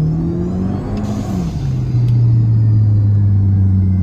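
Car engine pulling under acceleration with its pitch rising, then dropping sharply as it shifts up a gear about a second and a half in, then running steadily at lower revs.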